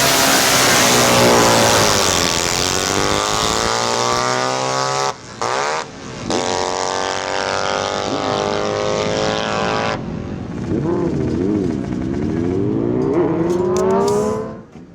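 Sprint-racing motorcycle engines at full throttle, their pitch climbing as the bikes accelerate. The sound drops out briefly about five seconds in, changes around ten seconds, climbs again, then falls away near the end.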